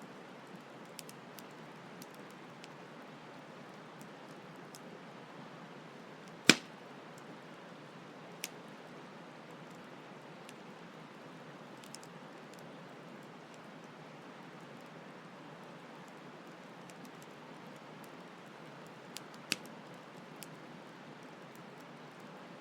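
Campfire crackling with scattered sharp pops, the loudest about six seconds in and another about two-thirds of the way through, over the steady rush of a flowing stream.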